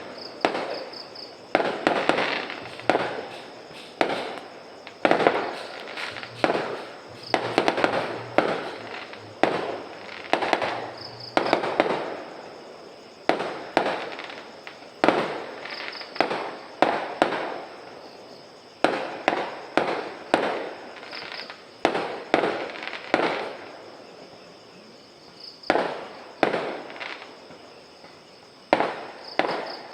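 Fireworks going off one after another: sharp bangs, often in quick clusters, each trailing off in a fading echo, with a few slightly quieter gaps between volleys.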